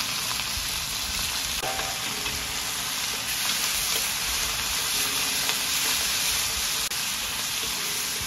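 Pickled chilies, pickled ginger and doubanjiang (broad bean chili paste) sizzling steadily in hot oil in a wok while a wooden spatula stirs them.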